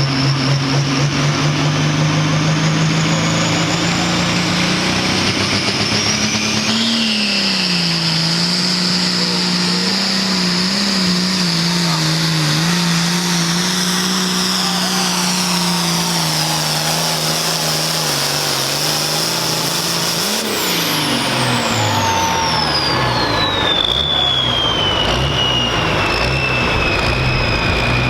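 Turbocharged diesel pulling tractor running at full throttle under load down the pull track, its engine note holding high with a steady turbo whine above it. About two-thirds of the way through the driver lets off: the engine note drops and the turbo whistle winds down, falling steadily in pitch.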